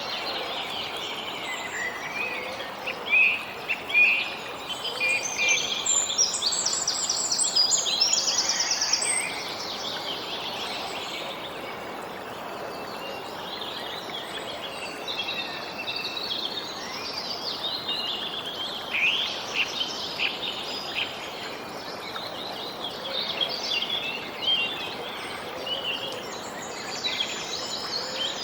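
Small songbirds chirping and trilling in quick overlapping phrases over a steady hiss of outdoor background noise, busiest in the first third and again in the second half.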